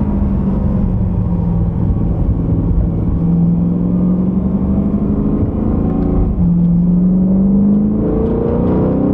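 The E92 BMW M3's 4.0-litre V8 under acceleration, its pitch climbing slowly through a gear, dropping at an upshift about six seconds in, then climbing again.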